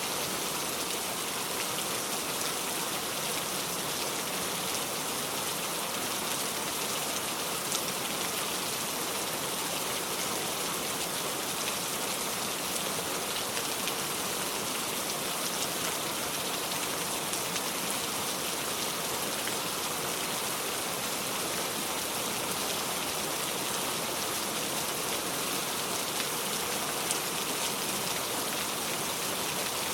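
Heavy rain falling steadily on a metal roof: a dense, even hiss of drops, with an occasional louder drop standing out.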